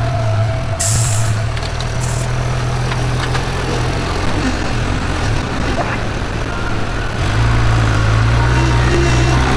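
Vehicle engine running at low speed, growing louder about seven seconds in, with a short hiss of air about a second in.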